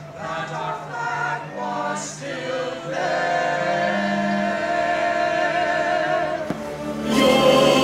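Choir singing long held notes over music; a fuller, louder musical passage comes in about seven seconds in.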